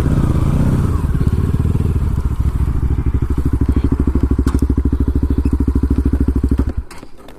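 Bajaj NS200 single-cylinder motorcycle engine running, its exhaust giving a steady train of pulses at low revs. It cuts off abruptly near the end.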